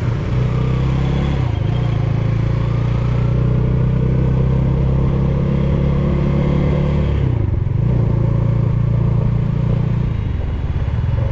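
Bajaj Dominar 400 motorcycle's single-cylinder engine running under way, its note steady apart from two short drops in pitch that climb back up, about a second and a half in and again after seven seconds.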